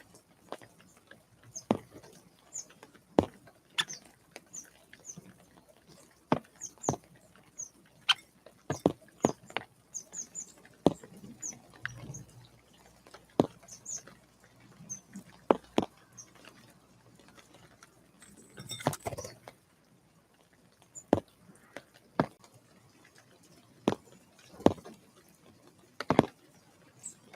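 Irregular sharp taps and knocks at an outdoor bird feeder, a second or so apart, among frequent short high call notes of small birds. A brief rustle comes about nineteen seconds in.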